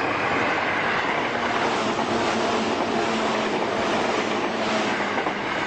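Commuter train at a station platform giving off a steady rumble and hiss, with a faint low hum underneath.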